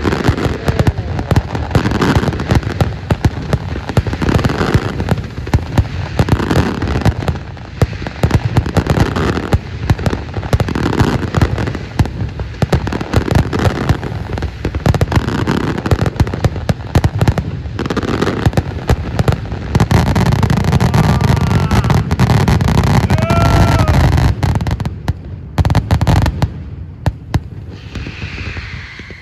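Fireworks display: a dense, continuous run of shell bursts and crackling bangs. It swells into a heavier, deeper barrage about two-thirds of the way through, then thins out near the end.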